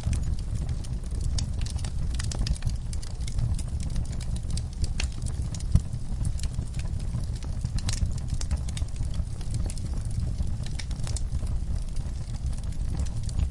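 Wood fire crackling in a fireplace: irregular sharp pops and snaps over a steady low rumble of the flames, with one louder pop about halfway through.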